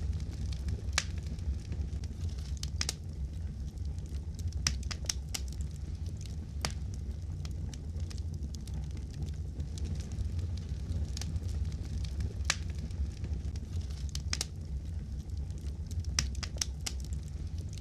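Wood fire crackling in a fireplace: scattered sharp pops and snaps, irregular and several close together at times, over a steady low rumble of the burning fire.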